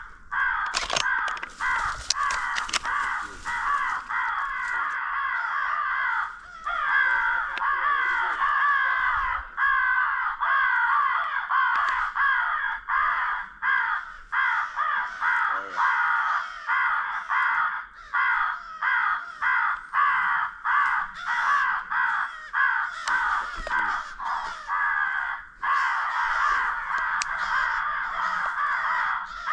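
Crows cawing continuously, many harsh calls overlapping in a dense chorus that barely pauses.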